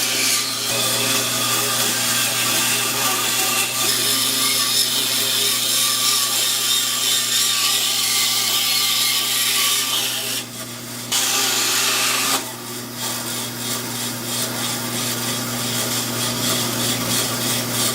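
Bandsaw running and cutting through a block of two glued-together 2x4s, a steady motor hum under the rasping of the blade in the wood. The cutting noise drops away briefly twice, a little past halfway through.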